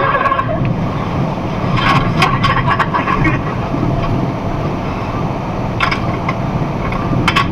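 Box truck driving, heard from inside the cab: a steady engine and road drone, with a few short sharp clicks about two seconds in, around three seconds, near six seconds and again near the end.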